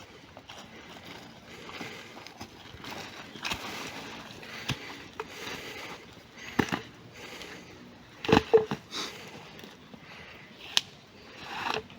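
Irregular knocks, clicks and rustling of hands-on camp work with wood, loudest in a quick cluster of knocks about eight seconds in.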